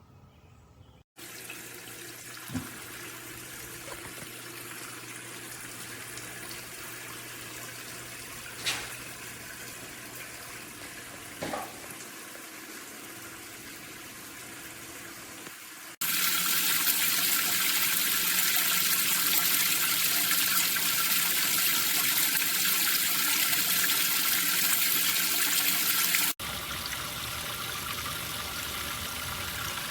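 Water running and splashing down the tiers of a Glitzhome tiered outdoor water fountain, heard in spliced takes, with a much louder splashing stretch from about halfway in until shortly before the end. A few light taps sound in the first half.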